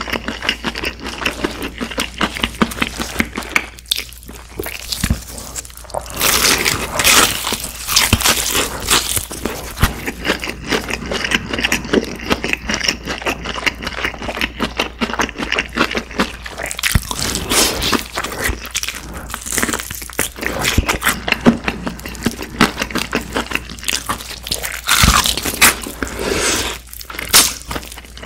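Close-miked biting and chewing of a crispy fried chicken drumstick, its batter crunching and crackling in quick, irregular crunches.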